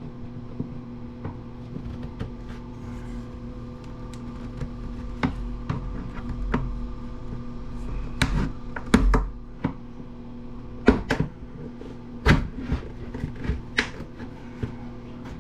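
Scattered clicks and knocks of a plastic power planer housing and tools being handled and pried apart, a few sharper knocks about halfway through, over a steady low hum.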